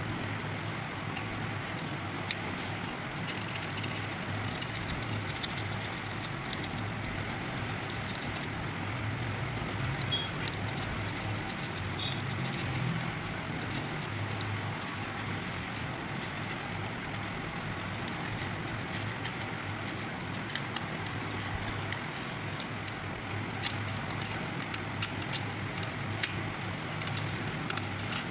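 Steady background noise like road traffic, with a low hum and a few faint small clicks scattered through it.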